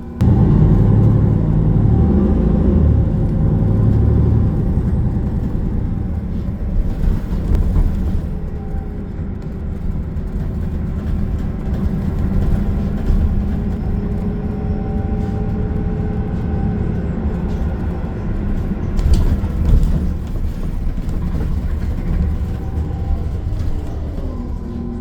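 Transit bus running, heard from inside the cabin: a steady low rumble of engine and road noise with a faint whine that slowly rises and falls, and a few rattles and knocks.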